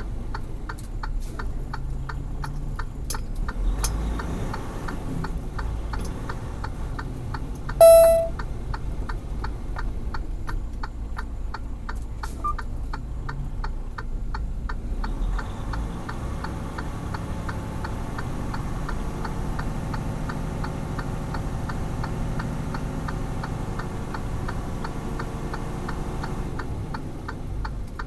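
Steady, evenly spaced ticking of a vehicle's indicator (flasher) relay, over a low engine rumble. About eight seconds in, a short, loud pitched beep sounds once.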